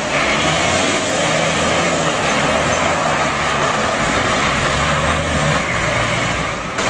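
A motor vehicle's engine running steadily under loud, even noise.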